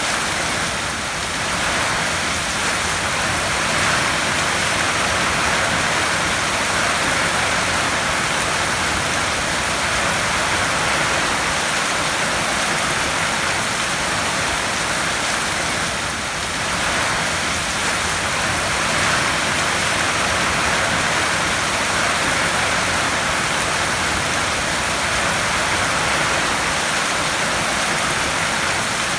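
Heavy rain falling steadily on a tin roof, a dense, even hiss of countless drops on the metal.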